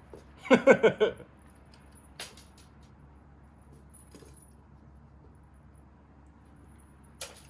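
Light jingling and clicking of a cat toy being played with. A short voice sound comes about half a second in, then scattered faint clicks.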